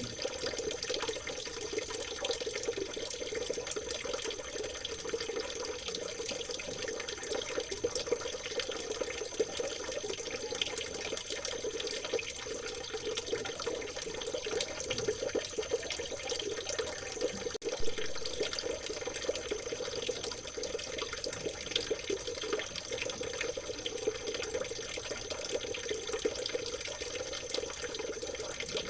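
Stream water trickling and gurgling steadily, with a thin, steady high-pitched tone above it. One brief, louder knock comes a little past halfway.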